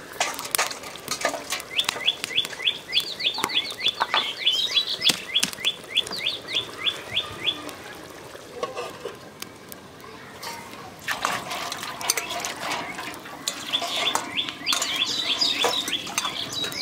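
A bird singing a long run of quick repeated chirps, about four a second, that stops about eight seconds in and starts again near the end, over scattered small clicks and crackles.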